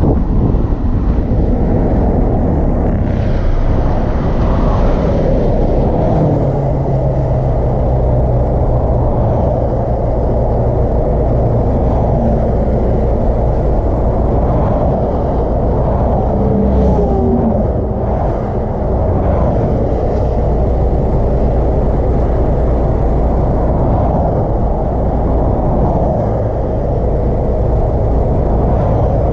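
Car engine running under way, heard with an aftermarket Acuity cold air intake fitted: a steady loud drone, with a brief louder, brighter surge a few seconds in and short rises and falls in pitch past the middle.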